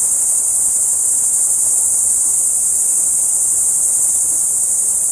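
A chorus of insects in a steady, high-pitched, unbroken drone.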